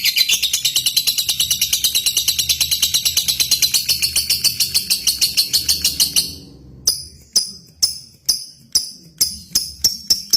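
Lovebird singing a long, fast, even chattering trill of about ten chirps a second, which breaks off about six seconds in; it is followed by separate sharp high chirps about two a second that quicken near the end.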